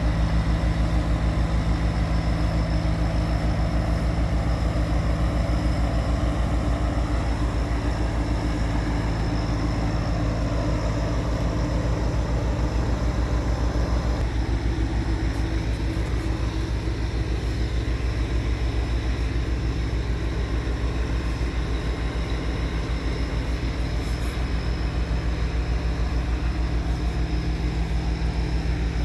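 Cargo towboat's engine running steadily with a rapid, even throb.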